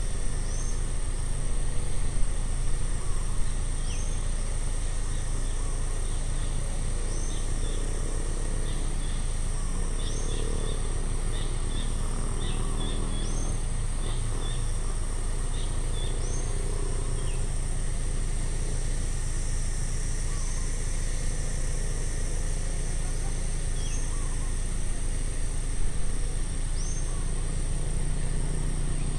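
Outdoor ambience: a steady high insect drone and a steady low rumble underneath, with a bird giving short chirps every second or two, busiest in the middle.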